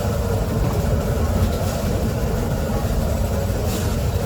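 Steady, loud, low mechanical rumble of a running vehicle, with no pitch changes.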